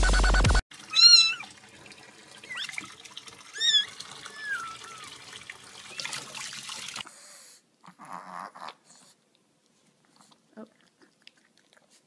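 A domestic cat meowing about four times in short, high calls that bend up and down in pitch, the first the loudest.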